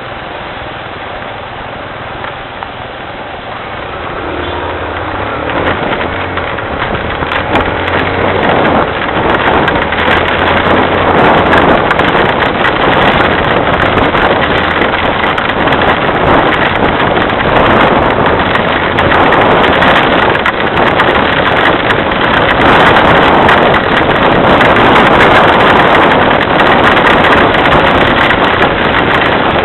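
Heavy tropical rain falling, swelling from about four seconds in to a loud, steady downpour with a crackle of drops. A low hum sits beneath it for several seconds early on.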